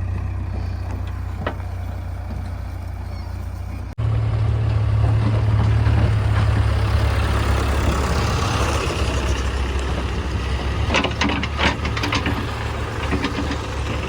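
Heavy diesel engine running steadily with a deep hum, as a backhoe loader works. The audio cuts abruptly about four seconds in and comes back louder. A short run of sharp knocks and clanks follows about eleven to twelve seconds in.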